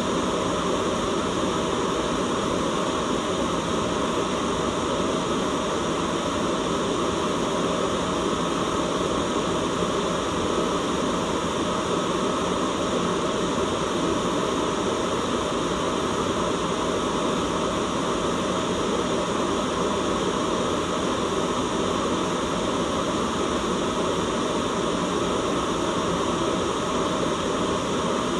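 Steady white-noise hiss, unchanging throughout, with a full rushing body weighted toward the low-middle range.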